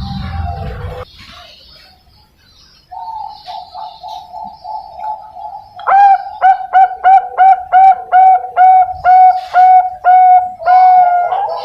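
Young zebra dove (perkutut bangkok) singing. First comes a soft, rapid purring trill for about three seconds, then a run of loud, clipped coos about three a second, ending on one longer drawn-out note.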